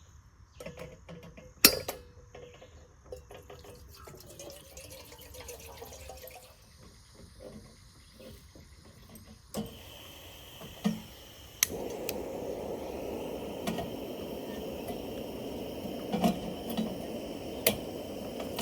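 Coffee water being poured and dripping, with light clinks of cookware and a few sharp clicks. About twelve seconds in, a steady rushing hiss starts and keeps going.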